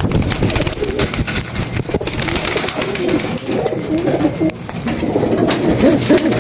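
Pigeons cooing: low warbling coos that grow stronger and more frequent near the end, with scattered light clicks and taps among them.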